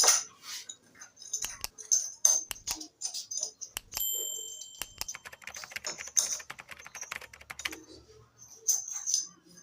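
Small metal parts, such as clipper blades and tools, being handled on a work surface: a string of irregular clicks and taps, with one ringing metallic clink about four seconds in and a quick run of rapid clicks shortly after.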